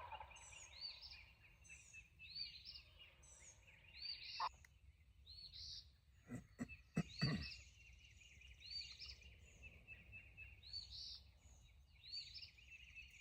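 Faint songbird chorus: short high chirping phrases repeating about once a second over a steady high trill. A few sharp knocks come a little past halfway.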